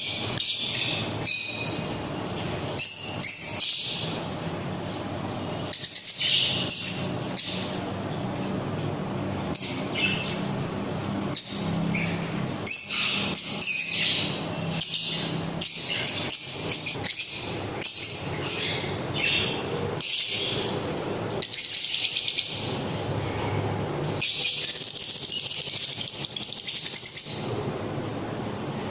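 A mixed aviary of small pet parrots (ringneck parakeets, lovebirds, cockatiels and budgies) chattering and calling together, with many short, sharp high-pitched calls overlapping one another.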